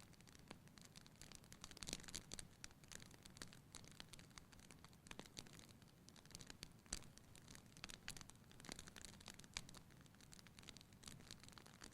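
Wood fire in a fireplace crackling quietly: irregular small snaps and pops over a low hiss, with a few sharper pops scattered through.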